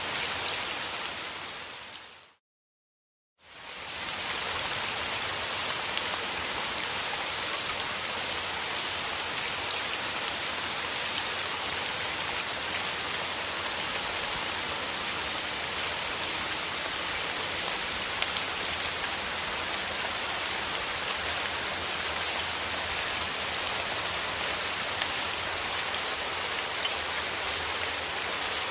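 Steady, dense rainfall with many fine drops hitting surfaces. About two seconds in it fades out to a second of silence, then fades back in and stays steady.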